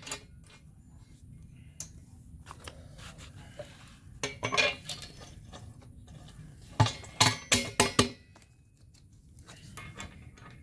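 Metal clinks and knocks of steel washers, nuts and bolts being fitted by hand to tow bar brackets, in two short bursts of clinking, one a little under halfway through and a longer one past the middle.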